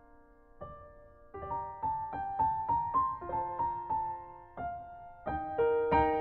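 Background piano music: a held chord fades out, then single notes are struck one after another in a slow, gentle melody.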